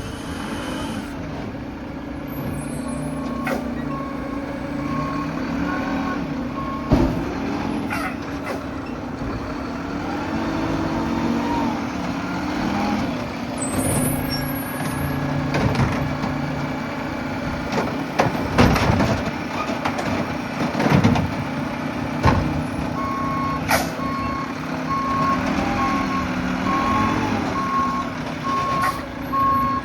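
Mack LR garbage truck running steadily, its reversing alarm beeping in an even pulse for a few seconds near the start and again for the last several seconds. Several sharp thumps and bangs, with air-brake hisses, cut in partway through.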